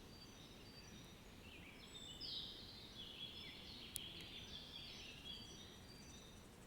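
Faint birdsong: many short, high chirping calls overlapping, busiest from about two to five seconds in, over a low steady background noise. A single sharp click comes about four seconds in.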